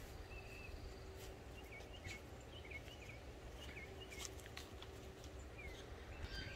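Small birds chirping repeatedly, short hooked notes coming every half second or so, with a few faint rustles, likely from the frost cloth being handled.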